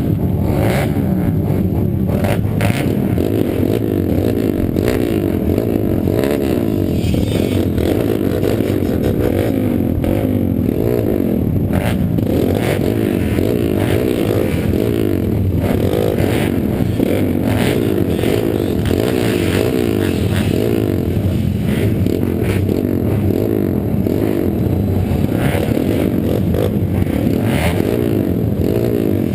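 Several pit bike engines running and revving together, their pitches rising and falling across one another.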